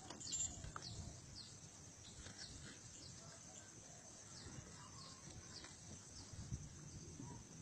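Faint outdoor ambience with small birds chirping: short high chirps, one every half second or so. There is a brief knock about half a second in.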